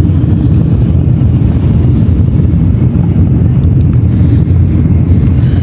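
Loud, steady low rumble of a Shinkansen bullet train running at speed, heard inside the passenger car.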